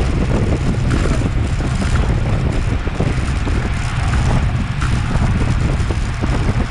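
Wind buffeting the microphone of a Garmin VIRB action camera on a road bicycle at racing speed, a loud steady rumble with rushing road and tyre noise and a few faint ticks.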